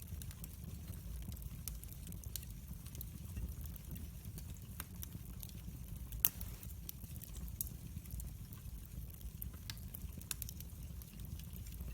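Wood fire crackling in a fireplace: a steady low rumble of flames with scattered sharp pops and snaps, one louder snap about six seconds in.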